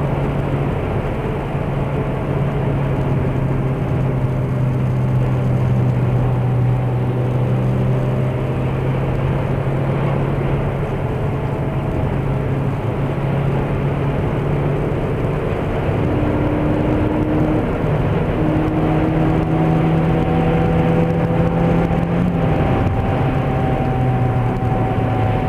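Cabin noise of an Opel Astra H sedan at highway speed with all windows shut: a steady droning howl over road noise, a hum that the owner says is not the engine and that drops lower as speed falls. Near the end, as the car reaches about 140 km/h, a whistle joins it; the owner cannot explain either sound.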